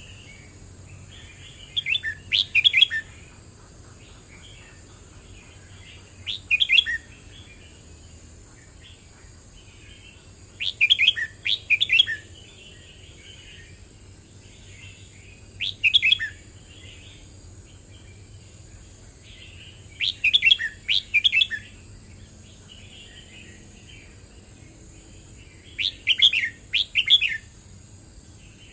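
Red-whiskered bulbul singing: six short, bright, warbled phrases about a second long, repeated every four to five seconds, with softer twittering in between.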